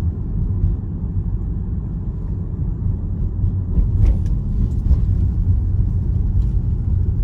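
Steady low rumble with no speech.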